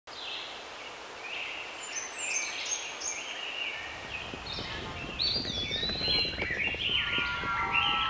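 Several small birds chirping, many short overlapping calls. A low background rumble comes in about halfway through.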